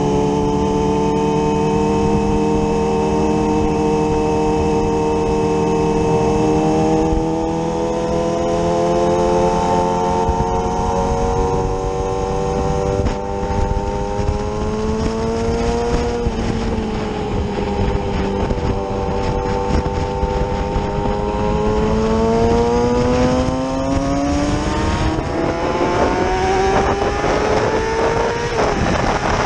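Yamaha R6 sport bike's inline-four engine, heard from the rider's seat, running under light throttle with the revs creeping up. The pitch dips briefly about halfway, then climbs steadily over the last few seconds as the bike accelerates, with wind rushing over the microphone.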